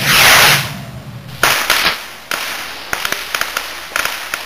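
Fireworks going off: a loud hissing burst at the start, then two sharp cracks and a run of rapid crackling pops.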